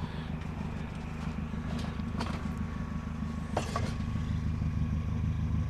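A vehicle engine idling steadily, with a few light clicks and rattles of items being moved through a garbage pile.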